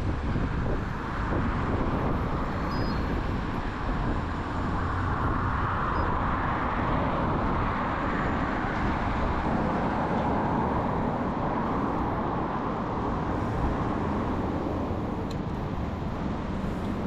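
Steady road traffic noise with a low rumble, without pauses.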